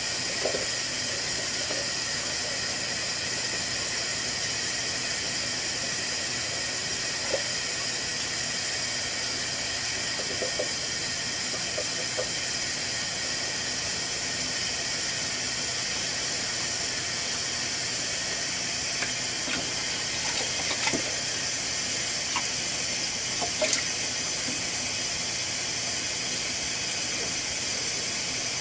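Steady hiss of a washing appliance running, with scattered small clicks and knocks, more of them in the second half.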